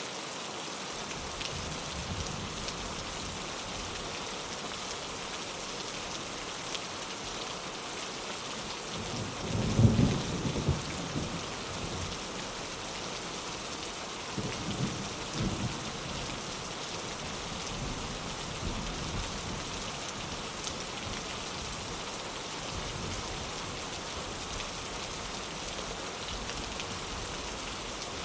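Steady rain falling on a window, with a rumble of thunder about ten seconds in and a weaker, shorter rumble a few seconds later.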